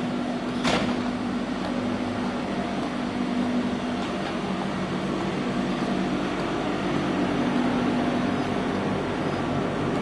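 A steady mechanical hum with a low droning tone over a wash of noise, and one short sharp click about a second in.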